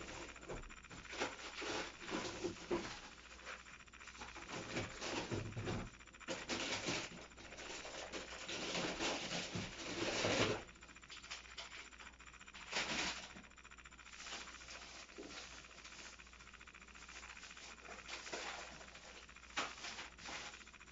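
Irregular small scratching, clicking and rustling of plastic being handled and worked with a 3D pen, with a longer stretch of scraping about six to ten seconds in.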